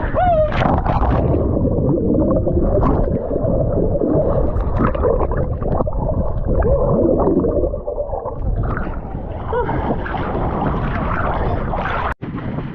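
Muffled, dull gurgling and sloshing of sea water around a camera dipped in or under the waves while swimming, with wavering tones in the water noise. The sound cuts out for an instant near the end.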